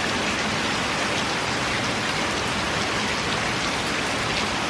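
Heavy rain pouring down, a steady even hiss with faint patter of drops.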